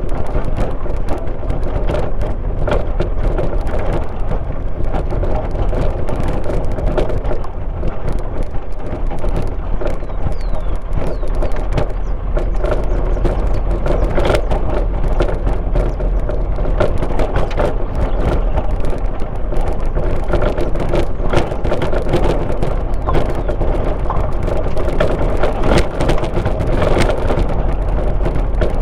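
Car driving on a rural road, heard from inside the cabin: a steady low rumble of engine and tyres with frequent small knocks and rattles.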